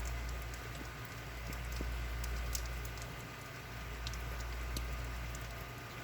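Steady rain falling, with scattered sharp drips and patters of drops striking nearby surfaces.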